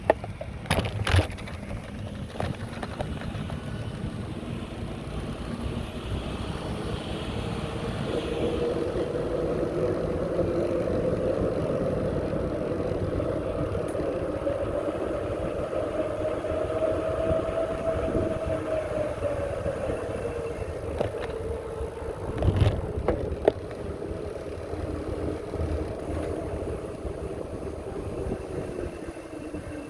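Bicycle riding noise: steady rumble of tyres and wind on the microphone, with a humming tone that swells and fades over about ten seconds in the middle. Sharp knocks about a second in and again about two thirds of the way through.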